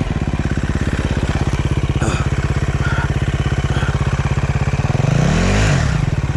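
Dirt bike engine running at low revs with a fast, even firing pulse, with a brief knock about two seconds in. About five seconds in the engine revs up and back down.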